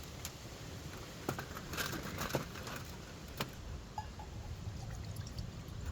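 A few scattered light clicks, taps and rustles of small objects being handled, over a steady low background rumble.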